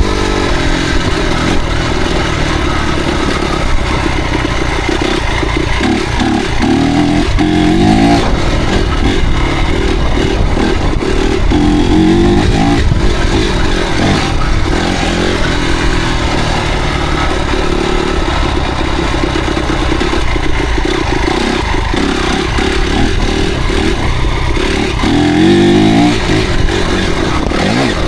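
Motocross motorcycle engines running loud and revving, their pitch rising as they accelerate several times.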